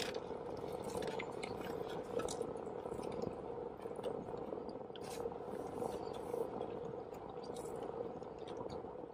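Faint close-mouthed chewing of a fried chicken sandwich, with a few small crisp clicks scattered through it, over a steady low hum inside a car.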